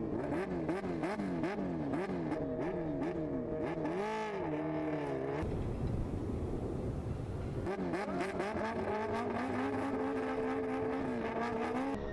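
High-performance racing engines accelerating hard, their pitch climbing and dropping again and again through quick gear changes. A few seconds of rushing noise without pitch follows, then an engine note climbs once more and holds.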